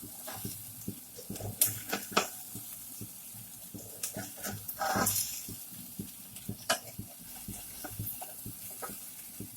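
Rice-powder-coated raw banana pieces sizzling in oil in a kadhai, while a spatula scrapes and taps against the pan as the pieces are turned over, with several sharp clicks scattered through.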